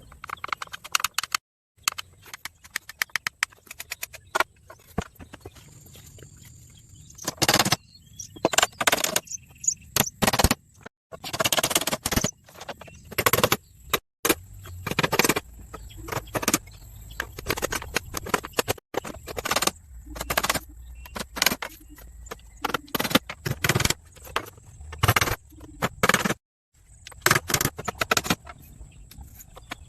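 A rapid, irregular series of sharp knocks, clicks and rattles, with a few abrupt cuts to silence.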